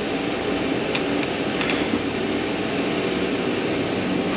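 Steady rushing noise of air-moving machinery, even and unbroken, with a faint low hum underneath.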